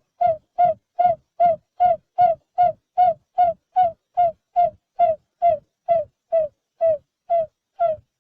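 Barred buttonquail calling: a steady run of short, low hooting notes, about two and a half a second, each dropping slightly in pitch.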